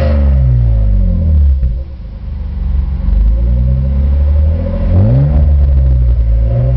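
BMW E36 320i's 2.0-litre straight-six exhaust note through an Eisenmann exhaust. The revs fall away at first, the sound dips briefly around two seconds in, then the engine is revved sharply about five seconds in and the revs fall back.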